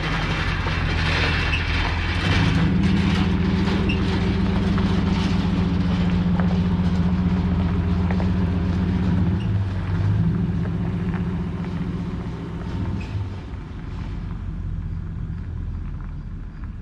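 A vehicle engine running steadily. It grows louder about two seconds in, shifts in pitch near ten seconds, and fades away over the last few seconds.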